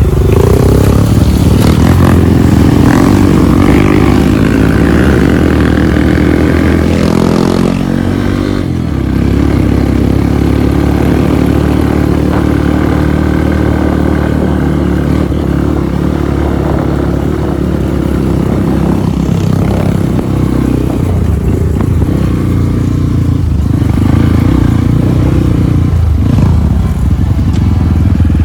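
Off-road motorcycle engine running under load: the revs climb over the first several seconds, drop briefly, then hold fairly steady with small rises and falls.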